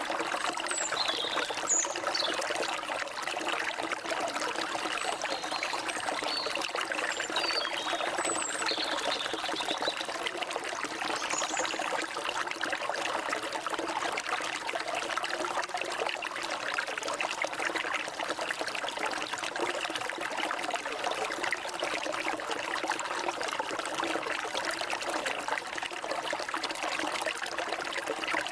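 Forest stream water flowing and trickling steadily, with a few brief high bird chirps in the first dozen seconds.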